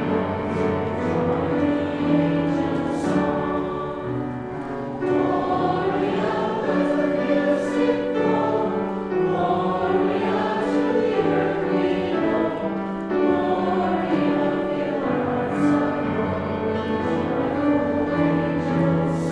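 A choir singing a hymn, several voices together on held chords.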